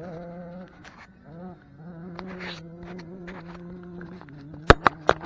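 A low, steady buzzing drone holding one pitch with a slight waver, breaking off briefly and gliding up about a second and a half in. Several sharp clicks or knocks come near the end.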